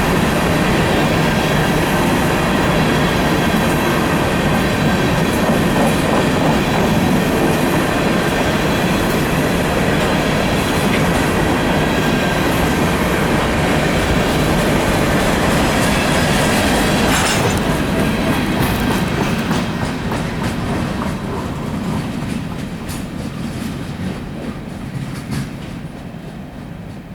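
Coal train cars rolling past, a steady loud rumble of wheels on the rails with a faint high ringing, fading away over the last several seconds as the train moves off.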